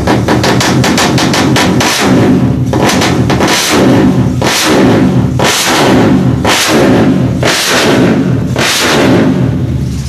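Two-stroke drag-bike engine revved again and again through a JRM racing exhaust: about eight sharp blips, roughly one a second, each rising quickly and dropping back.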